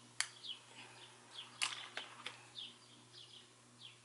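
Faint small-bird chirping, short calls about every half second, over a low steady hum. Three sharp clicks cut in, the loudest about a second and a half in.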